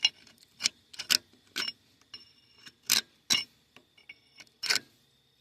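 Metal hub parts and tools clinking while a truck's front wheel hub is taken apart: a dozen or so sharp, irregular clinks, some with a brief metallic ring.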